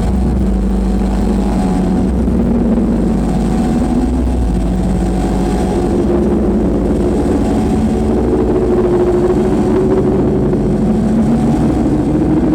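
Live noise music: a loud, unbroken wall of electronic noise over a heavy low rumble, with a few droning tones that slowly waver and slide in pitch.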